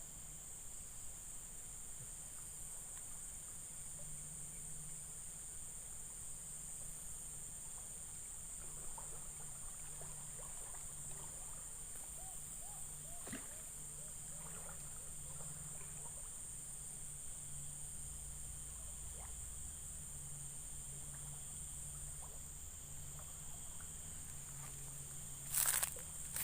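Steady high-pitched drone of insects, with faint scattered chirps and ticks in the middle. A short loud noise comes near the end.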